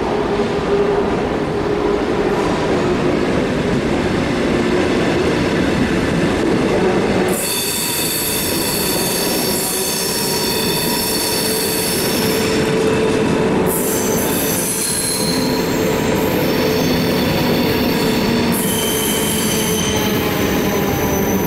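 BLS regional train rolling along the platform: a steady rumble of the train running in, then, from about seven seconds in, a high squeal of several steady tones from the wheels as the coaches pass close by.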